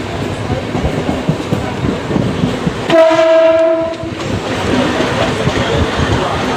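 Mumbai suburban electric local train running, rattling and knocking over the track, with a single horn blast of about a second roughly three seconds in.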